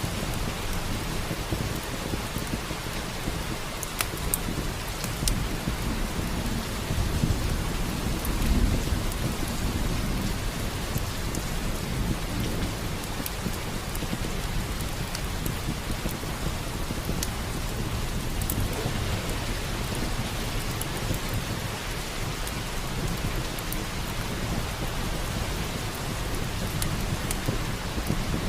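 Steady heavy rain, with low thunder rumbling that swells about a quarter of the way in. Scattered sharp crackles of a log fire burning run through it.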